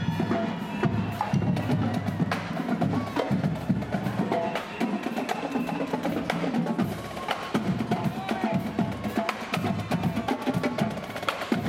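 Marching band playing, led by its drumline: a rapid, steady run of snare and drum strikes with some pitched instruments above.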